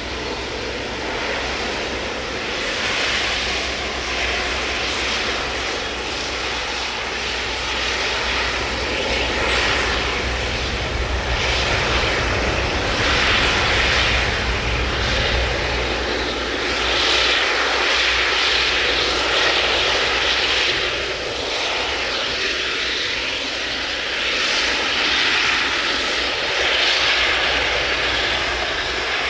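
Jet engine noise from an Airbus A380 airliner, a loud steady rush that swells and eases several times, with a low rumble underneath that fades about halfway through.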